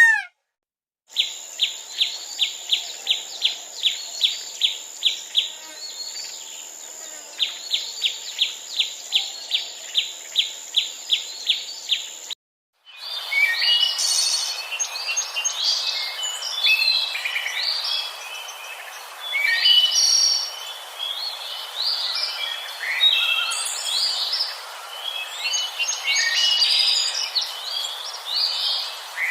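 A fast run of high chirps, about three a second, over a steady high whine, pausing briefly midway. After a sudden cut about twelve seconds in, several birds chirp and call together in a busy chorus.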